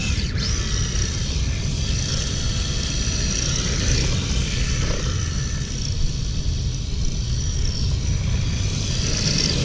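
Redcat Thunder Drift RC car's electric motor running with a steady high-pitched whine that shifts slightly in pitch as it drives, over a constant low rumble.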